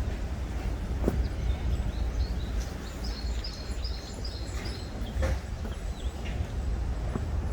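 Outdoor ambience with a steady low rumble, and a small bird chirping a quick run of about five short high notes around the middle. A few sharp clicks sound, about a second in and again past the five-second mark.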